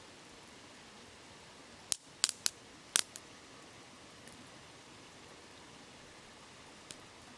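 Wood campfire crackling: a quick cluster of sharp pops about two seconds in and one small pop near the end, over the steady rushing hiss of a shallow river.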